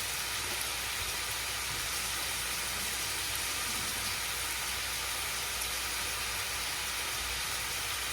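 Zucchini, scallion whites and peppers frying in a pan: a steady sizzling hiss, the vegetables partly cooked.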